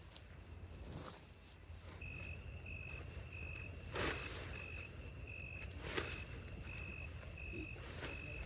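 A cricket chirping in short, evenly repeated high trills, over a low wind rumble, with two sharp knocks partway through.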